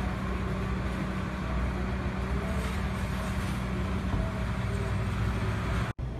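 Steady low engine hum of an idling vehicle. It breaks off for an instant near the end.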